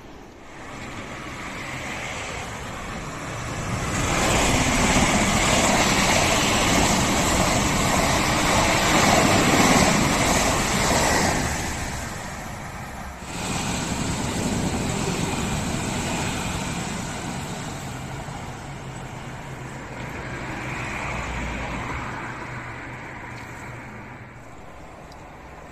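A train passing on the line below: a rumble of wheels on rails swelling over the first few seconds, loudest for about seven seconds, then dying away. After a brief drop-out it carries on as a quieter, steady rumble.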